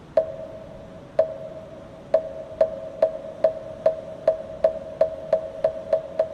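Moktak, the Korean Buddhist wooden fish, struck about fourteen times, slowly at first and then speeding up steadily to about four strikes a second, each knock with a short ringing tone.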